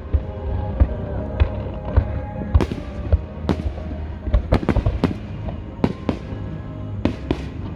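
Fireworks display: a rapid, irregular run of sharp bangs and crackles with deep booms, some in quick clusters. Music plays underneath.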